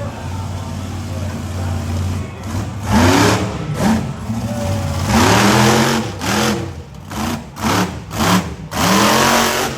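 Monster truck engine revving in a series of hard throttle blasts, about seven in quick succession, over a steady low idle rumble.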